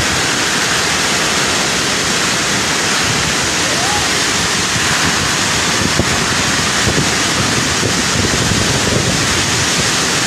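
Storm wind blowing hard and without let-up, a dense steady rush of noise, at the peak of the storm.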